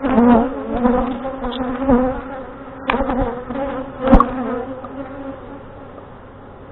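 Honey bees from an open hive buzzing loudly and steadily, a colony agitated by the inspection. Two sharp knocks come about three and four seconds in, and the buzzing eases off toward the end.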